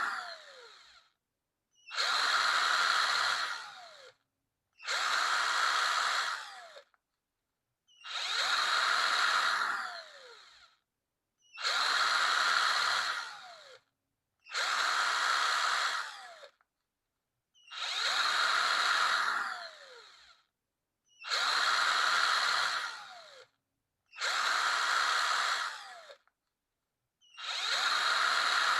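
Power drill triggered in short bursts of about two seconds, roughly every three seconds. Each burst ends in a falling whine as the motor spins down.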